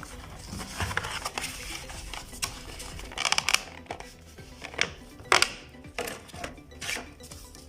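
Hands handling a power bank, its charging cable and packaging: scattered sharp clicks, light knocks and brief rustles of plastic.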